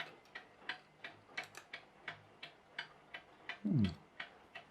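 Mechanical clock ticking steadily, about three ticks a second; the clock has many 3D-printed replacement parts. About three-quarters of the way through comes one short voice sound that falls in pitch.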